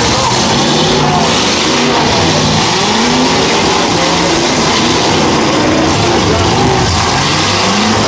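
Several demolition derby cars' engines revving hard at once, their pitches rising and falling over one another, over a dense, loud wash of noise.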